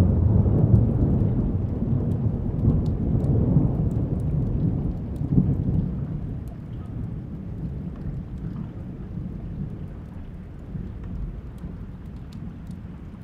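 A long roll of thunder, deep and rumbling, loudest in the first second, swelling once more about five seconds in, then slowly fading away. Steady rain falls underneath, with scattered small drip ticks.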